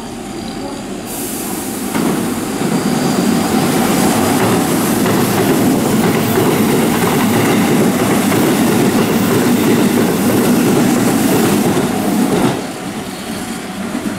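Keihan 7200 series electric train running past close by, a loud steady rumble of wheels on rails. It swells about two seconds in and drops off sharply near the end.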